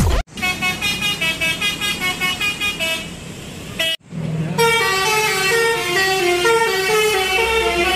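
Bus telolet horn, a multi-tone musical horn, playing tooting melodies: a run of quick notes at about four a second, then after a short break a slower tune of longer held notes.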